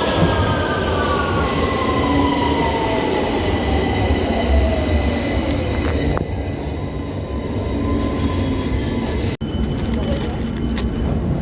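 Electric train slowing, its traction motors whining in a pitch that falls over about six seconds above a steady low rumble from the wheels and rails; a steadier high hum follows as it comes to a stand.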